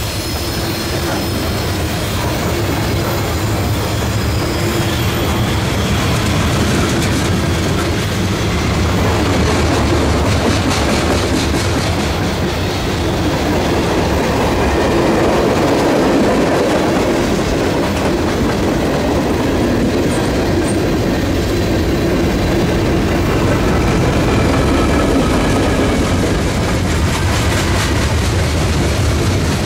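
Cars of a CSX mixed freight train rolling past at steady speed: a continuous rumble and clatter, the wheels clicking rhythmically over rail joints, with a touch of wheel squeal.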